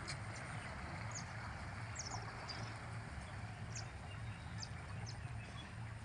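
Outdoor ambience: small birds chirping briefly now and then over a steady background hiss and low hum.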